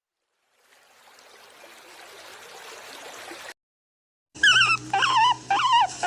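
A steady hiss grows louder and cuts off suddenly. After a short silence, a chicken starts calling loudly near the end: a string of short clucks with a wavering pitch.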